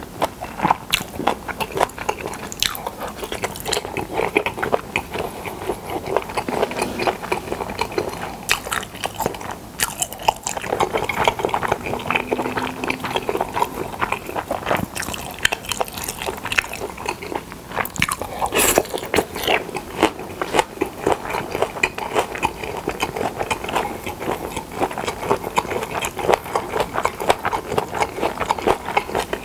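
Close-miked chewing and biting of pyeonyuk, pressed boiled pork, with many small crisp clicks throughout and one sharper click about two-thirds of the way through.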